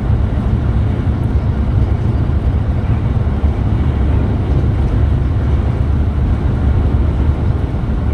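Steady low rumble of a Scania Metrolink multi-axle coach under way, with engine and road noise running at an even level.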